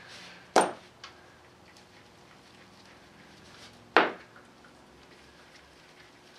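Two sharp metal clinks, one just over half a second in and the other about four seconds in, with a fainter tick shortly after the first: metal tools or parts being handled and set down.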